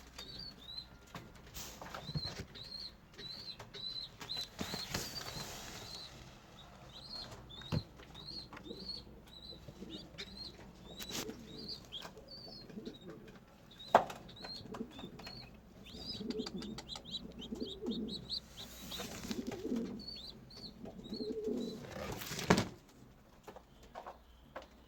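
Birds calling: a long run of short, repeated high chirps, joined in the second half by lower, pulsing calls. A few sharp knocks break in, the loudest about halfway through and near the end.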